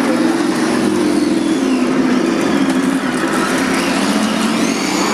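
Radio-controlled model truck running: a steady engine-like drone, with a high motor whine that rises and falls about four seconds in.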